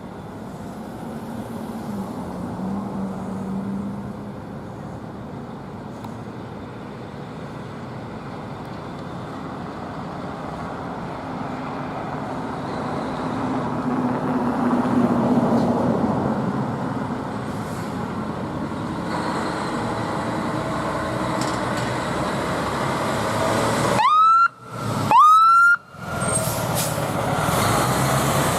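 Fire truck driving past, its engine and road noise building steadily. Near the end its siren sounds two short rising whoops.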